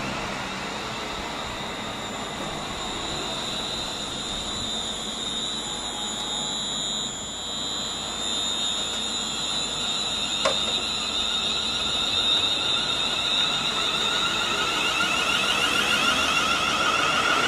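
A train running through the station: a steady rushing noise with high-pitched ringing tones over it, getting louder over the last few seconds. A brief click about ten and a half seconds in.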